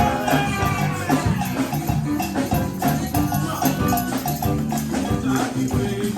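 Live Congolese gospel band playing: drums and a shaker keep a busy beat over a bass line, with a gliding sung or melodic line near the start.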